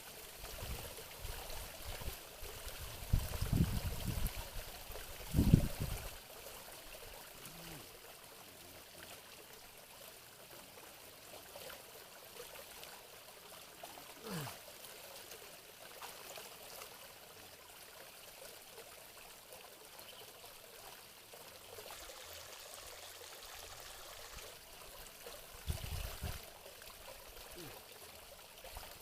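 Steady trickle of running water, with a few loud low bumps about three to six seconds in and again near the end.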